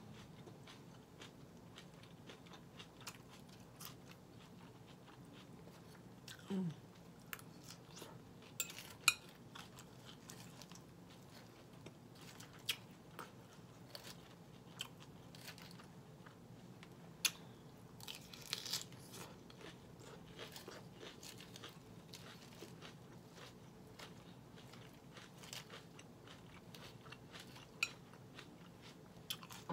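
Close-up chewing of a Caesar salad: crisp romaine lettuce crunched between the teeth in a long run of sharp clicks and crackles, with a few louder crunches.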